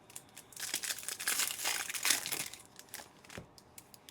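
Trading card pack wrappers being torn open and crinkled by hand, a dense crackling for about two seconds, then a few light clicks and rustles.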